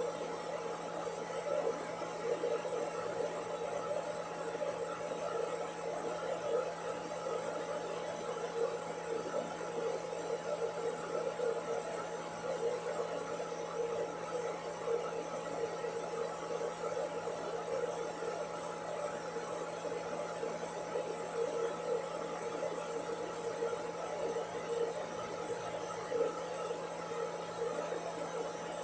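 Hair dryer running steadily: an even whir of blown air with a constant motor hum, unchanging throughout.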